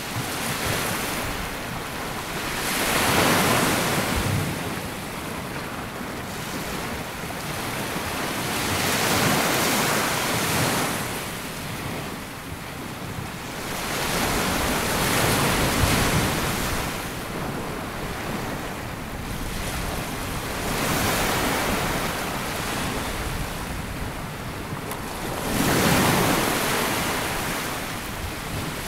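Sea waves breaking and washing up a sandy beach. The surf swells and ebbs about every five to six seconds, five times over.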